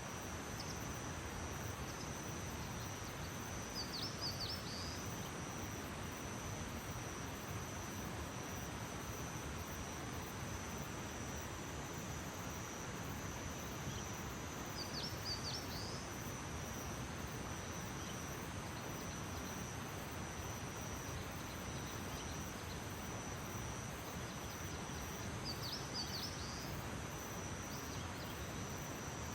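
Outdoor nature ambience: an insect chorus keeps up one steady high-pitched trill over an even background hiss. A bird gives a short burst of chirps three times, about every eleven seconds.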